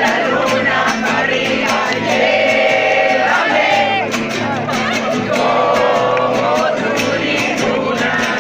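A group of people singing a song together, with a quick steady beat keeping time under the voices.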